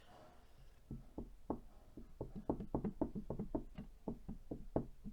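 A rapid, irregular run of light knocks or ticks, several a second, starting about a second in and carrying on.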